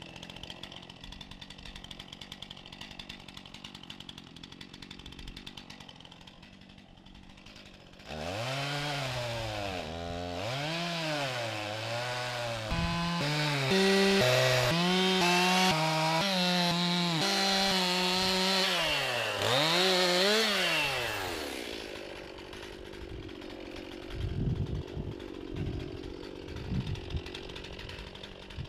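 Chainsaw idling, then revved up and down repeatedly and held at high speed for stretches while cutting the ends off logs, for about thirteen seconds before dropping back to idle. A few dull knocks follow near the end.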